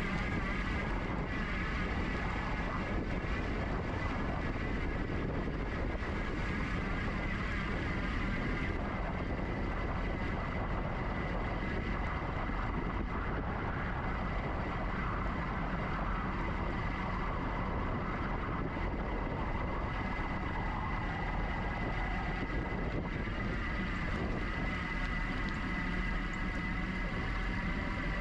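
Steady wind rush and rolling noise of a GoCycle GX electric bike being ridden, with a thin high whine running under it.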